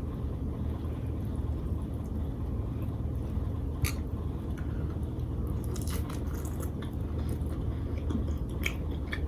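Close-miked mukbang eating sounds: lobster tail in spicy butter sauce being bitten and chewed, with scattered wet smacking clicks, one sharp click about four seconds in and a cluster a couple of seconds later, over a steady low hum.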